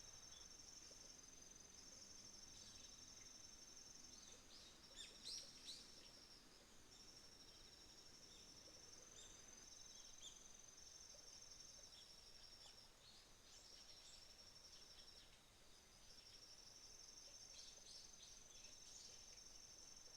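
Faint autumn insects trilling steadily in a high pitch, stopping and starting again every few seconds. A few short bird chirps come about five seconds in and again near the end.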